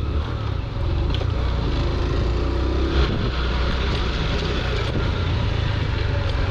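Motorcycle engine running with steady road and wind noise, heard from the rider's camera, with a brief thump about three seconds in.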